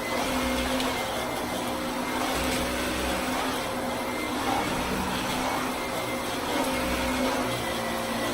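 Vacuum cleaner running at a steady pitch.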